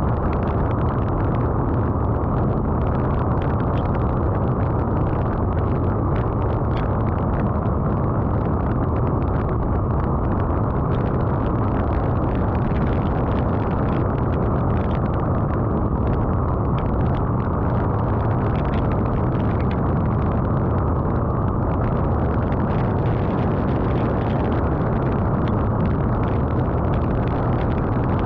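Steady road and engine noise of a vehicle travelling in rain, with a constant rumble and hiss and many small ticks of raindrops hitting.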